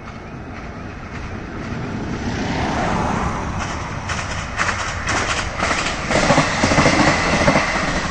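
ScotRail Class 158 diesel multiple unit approaching and passing close by, its diesel engine growing steadily louder. In the second half its wheels click quickly over the rail joints as the carriages go past.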